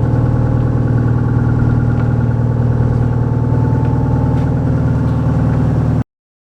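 Engine running steadily at an even idle, a low hum with a constant pitch, which cuts off abruptly about six seconds in.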